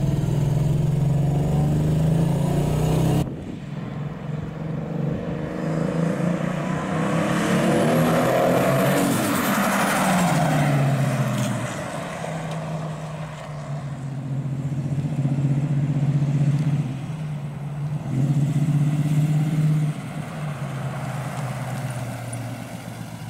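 Buick Regal's 3.8-litre intercooled turbocharged V6. It first drones steadily, heard from inside the cabin while cruising. After a cut, the car accelerates with rising pitch and a thin high whine rising with it, then the pitch falls away. It then runs at low revs, swelling and easing as the car turns.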